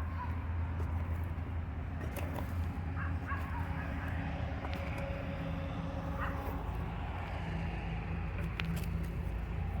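Steady low background rumble with a few short animal calls, one about three seconds in and one about six seconds in.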